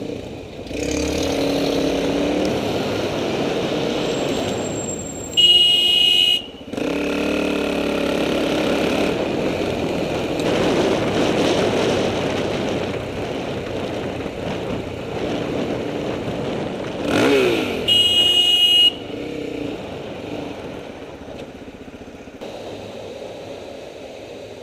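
Suzuki DR-Z400SM single-cylinder motorcycle engine running under wind noise while riding in traffic, cut by two loud, steady horn blasts of about a second each, about five seconds in and again near eighteen seconds.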